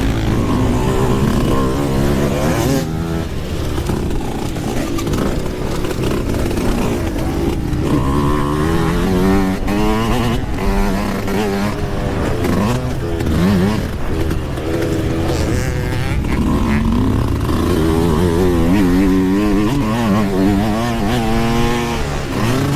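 Yamaha YZ125 two-stroke dirt bike engine being ridden hard, its pitch repeatedly climbing through the revs and dropping back with throttle and gear changes.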